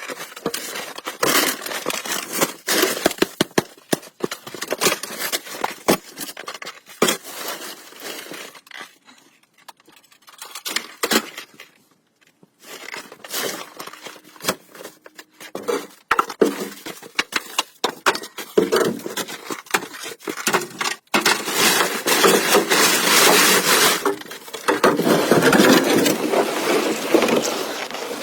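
Sticks and twigs being snapped and handled: irregular sharp cracks and scrapes, turning into a denser, continuous crackling rustle in the last several seconds.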